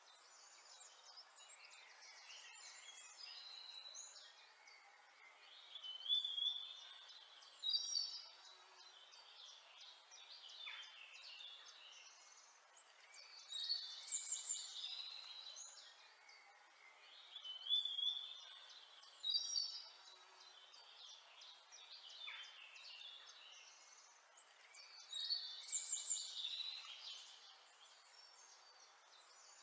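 Small birds chirping and singing, with louder bursts of song every few seconds over a faint steady hiss.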